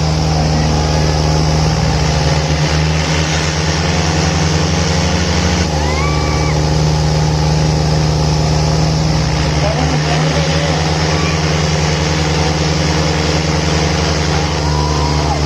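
Tractor diesel engine running hard under load in a tug-of-war pull, a steady loud drone whose pitch shifts slightly a few times.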